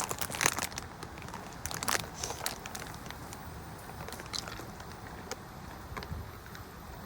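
Plastic pasta bag crinkling and dry fusilli clicking as it is handled: a cluster of sharp crackles in the first two seconds, then sparser clicks, over a low wind rumble on the microphone.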